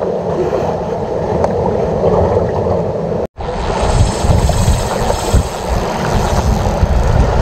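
Wind buffeting an action camera's microphone over the wash of sea waves, a steady rumbling noise. The sound cuts out completely for a moment about three seconds in, then resumes.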